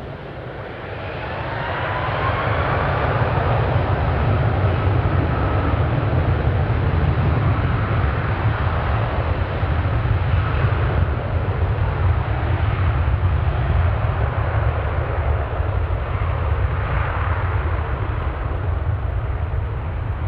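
Aircraft engines passing close: a loud, steady roar that builds over the first two seconds and then holds, with a faint rising whine near the start.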